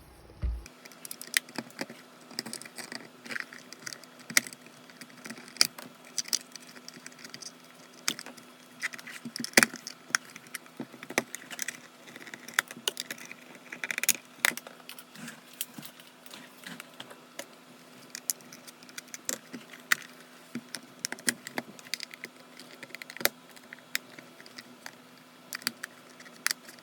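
Irregular small clicks, taps and rattles of hard plastic and metal parts being handled while the flip clock's case is taken apart, over a faint steady hum.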